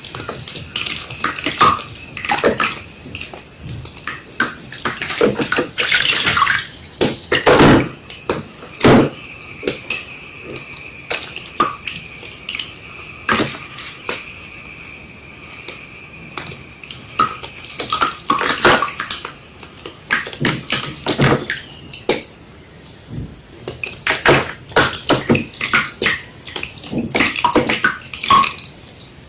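White gym chalk wet with water being crushed, giving irregular crunches and crackles that come in quick clusters.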